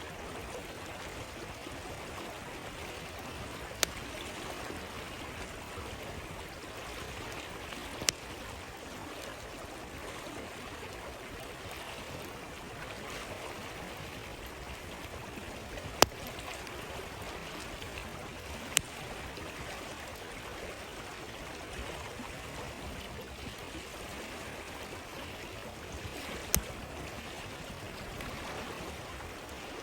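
A flowing stream running steadily, with a few sharp, widely spaced pops from a crackling campfire, five in all, the loudest about halfway through.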